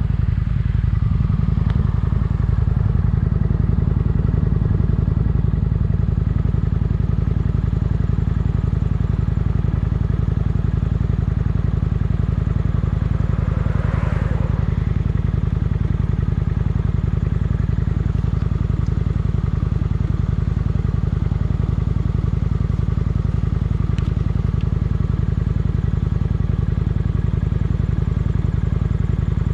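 Kawasaki Vulcan motorcycle engine running steadily at cruising speed as the bike rides along the road, with a brief swell of noise about halfway through.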